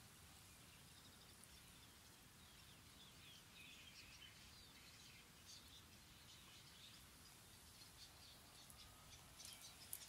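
Faint birdsong: scattered short high chirps and quick trills, busiest a few seconds in and again near the end, over a faint steady background hush.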